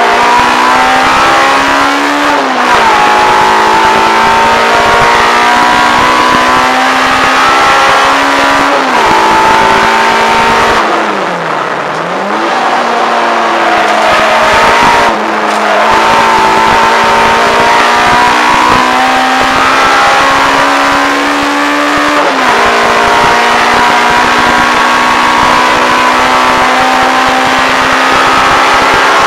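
Peugeot 106 GTi's 1.6-litre 16-valve four-cylinder on Jenvey individual throttle bodies, heard from inside the cabin, driven hard on track. The revs climb and drop sharply at each upshift, four times, and fall away briefly about halfway through as the driver lifts off before pulling again.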